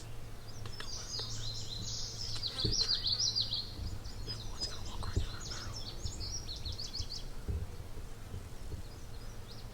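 A small songbird singing a rapid, high-pitched twittering song of quick chirps and sweeps, which stops about seven seconds in. A few soft low thumps are heard under it.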